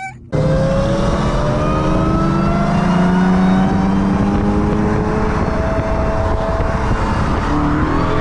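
Tuned car engine at full throttle on a drag race run, cutting in abruptly and climbing steadily in pitch, with a new rising note joining near the end.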